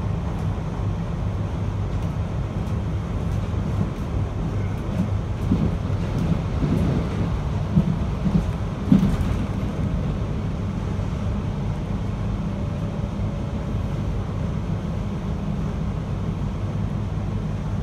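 JR Hokkaido 721-series electric train running, heard from inside the car as a steady rumble and hum of wheels and running gear. A few short knocks come between about five and nine seconds in.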